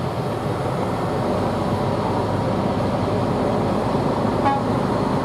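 Competition truck engine running steadily, a continuous mechanical drone.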